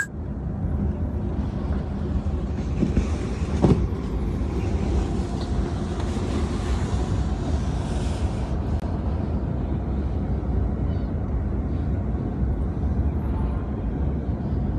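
Steady low rumble of a moving vehicle, with a hiss that rises in the first couple of seconds and fades out at around nine seconds.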